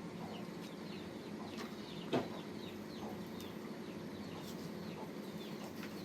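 Birds chirping in many short, repeated calls over a steady low background, with one sharp knock about two seconds in.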